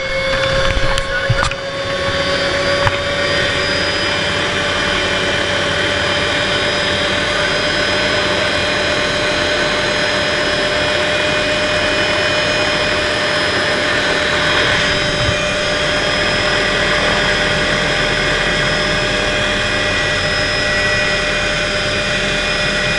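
Helicopter turbine engine and rotor running steadily: a high turbine whine over constant engine and rotor noise, its pitch creeping up slightly over the first two seconds. A few sharp clicks in the first second and a half.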